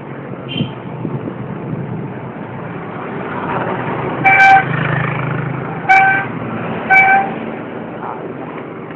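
A passing motor vehicle's horn honks three times, the first about half a second long and the next two shorter, a second or so apart. Road traffic noise swells while the vehicle passes.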